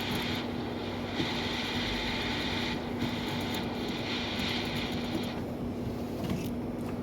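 A steady mechanical hum with a hiss of moving air that drops away and comes back a couple of times.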